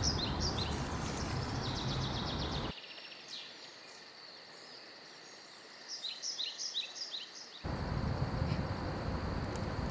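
Outdoor ambience with a steady low background rumble. A small bird sings runs of quick, high, repeated chirps, once at the start and again about six seconds in. The rumble drops away for several seconds in the middle.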